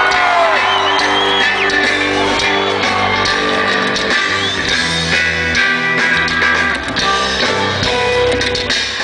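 Live rock band playing an instrumental stretch, with electric guitar, bass and drums at full volume and no lead vocal.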